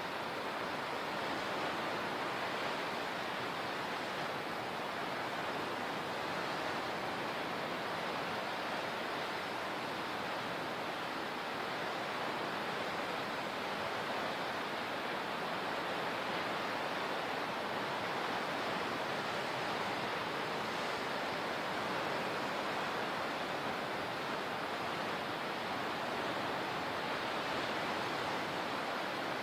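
Steady rushing of water, an even noise with no swells or breaks.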